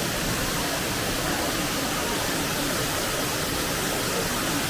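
Waterfall making a steady rush of falling water.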